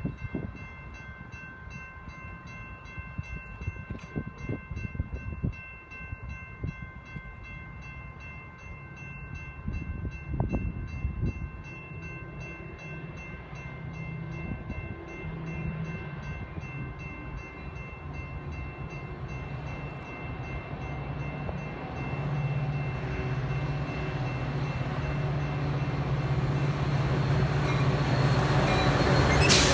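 Grade-crossing warning bell ringing steadily while a Metra diesel commuter train approaches, its low engine rumble growing steadily louder until the locomotive rushes past the crossing at the very end.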